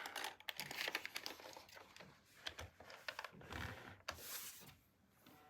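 Faint handling noise: scattered small clicks and soft rustles, like hands moving plastic toys and packaging, dying away near the end.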